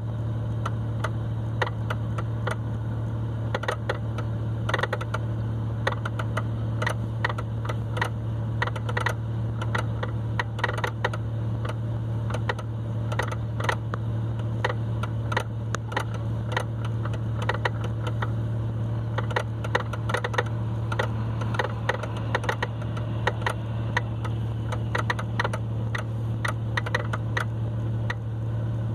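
Inside a BMW E39's cabin, a steady low hum, consistent with the engine idling, with irregular light clicks scattered throughout.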